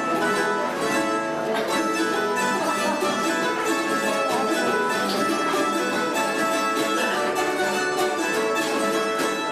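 A bandurria, laúd and guitar trio playing the instrumental opening of a Cádiz carnival tango, plucked melody over strummed chords.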